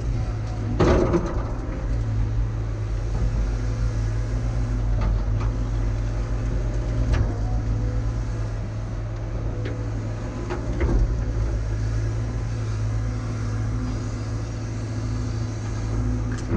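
Caterpillar diesel excavator engine running steadily under work, with a few sharp clanks and knocks from the machine about a second in and again around the middle.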